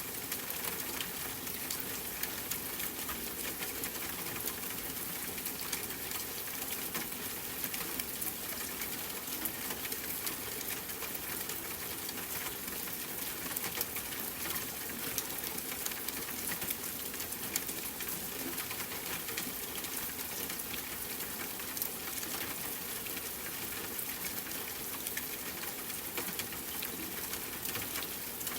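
Steady rain: an even hiss dotted with many small drop ticks, over a low, steady hum of distant city noise.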